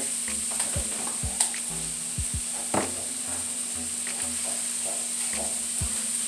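Cubes of tofu frying in vegetable oil in a frying pan: a steady sizzle with a few sharp pops.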